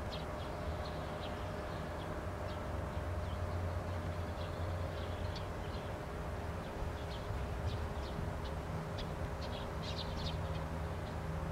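Outdoor garden ambience: small birds chirping in short, scattered calls over a steady low rumble.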